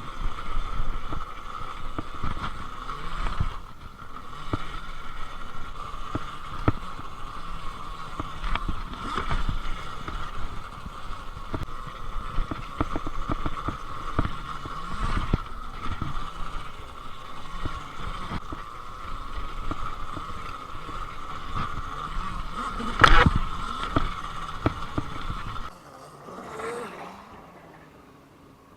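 Electric dirt bike ridden around a dirt track: a steady high electric-motor whine with wind and scattered knocks from the ride. There is one loud thump about 23 seconds in. A few seconds later the sound drops off to near quiet.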